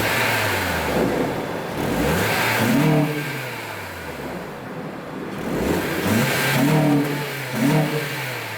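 Acura TSX K-series four-cylinder on its stock exhaust, revved from idle about three times, the pitch climbing and falling back each time.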